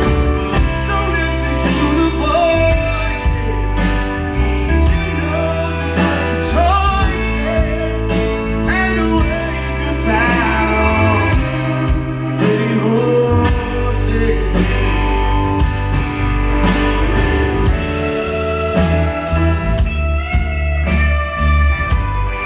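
Rock band music: drums, bass and guitars playing steadily, with a melody line that bends in pitch and some singing.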